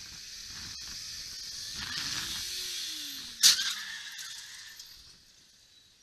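Vehicle noise swelling, with a hissing, squealing edge and a gliding tone, then a single sharp crash of impact about three and a half seconds in that fades over a second or so: a car collision.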